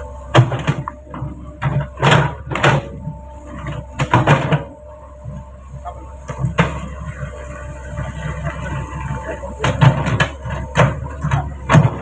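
Truck body and load banging and clunking over a rough road: a dozen or so loud, irregular knocks, some in quick clusters, over the steady low hum of the engine.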